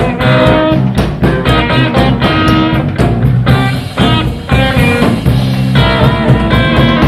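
Live blues-rock band playing an instrumental passage: electric guitar over bass guitar and drum kit, with steady drum hits, heard from a soundboard recording.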